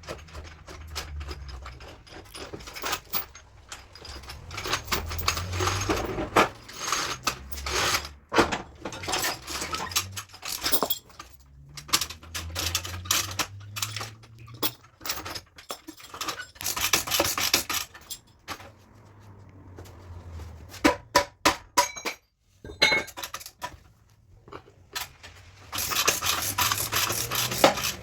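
Hand tools working a car's front body panel: irregular metal taps and knocks mixed with stretches of scraping and rubbing.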